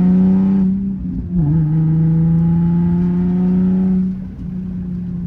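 Nissan 370Z's 3.7-litre VQ V6 through a loud aftermarket 'blast pipes' exhaust, held at steady revs with a brief dip about a second in. It gets quieter at the same pitch about four seconds in.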